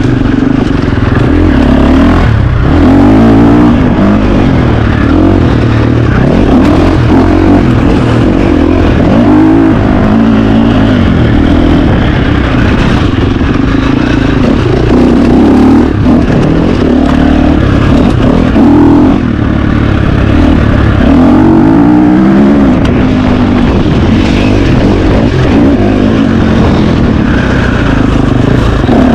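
A 2025 KTM 350 XC-F's single-cylinder four-stroke engine revving hard off-road. Its pitch rises and falls again and again as the throttle is worked and the gears change. Loud throughout.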